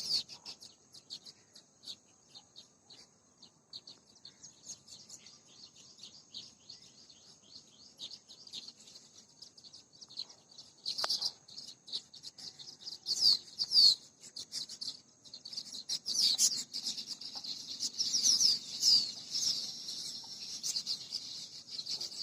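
Tailorbirds chirping: quick, sharp, high chirps, scattered at first and coming thick and loud in the second half, over a faint steady high-pitched tone.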